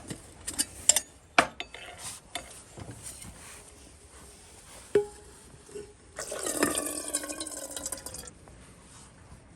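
Camp cookware being handled, with a few sharp clicks and knocks, then a single ringing clink. After that, liquid is poured into a vessel for about two seconds.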